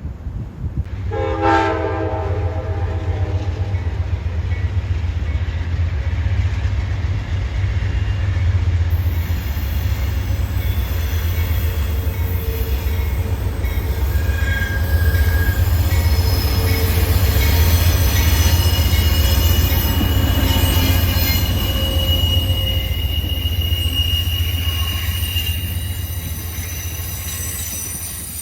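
A train horn sounds one short blast, then a train rolls past with a heavy steady rumble. From about a third of the way in, the wheels squeal in high, shifting tones.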